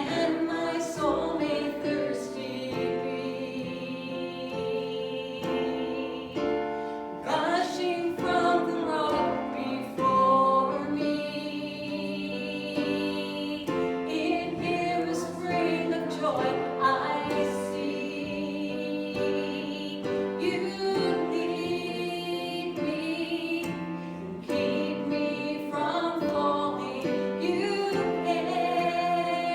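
Worship song in a church service: voices singing a sustained melody over instrumental accompaniment.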